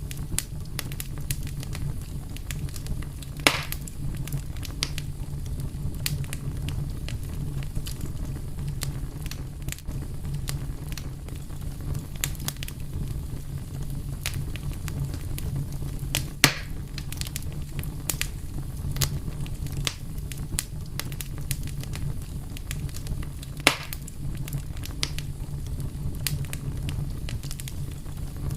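Wood fire burning with a steady low rumble and constant crackling, with three louder pops spread through it.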